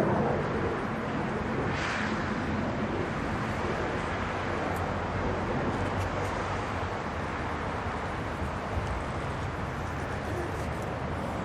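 Distant F-16 jet engine noise, a steady rushing sound, with a short hiss about two seconds in.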